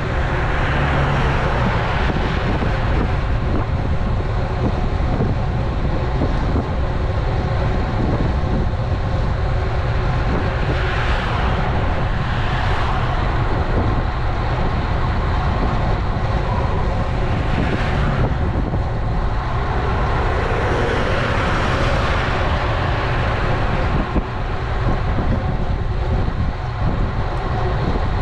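Steady rush of wind and tyre noise on an action camera's microphone while riding a road bike, swelling briefly several times, as passing traffic would.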